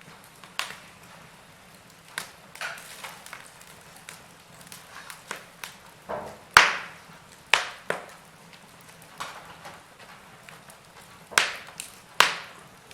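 Wood fire in a fireplace crackling, with irregular sharp pops and snaps over a faint steady hiss; the loudest pops come about halfway through and near the end.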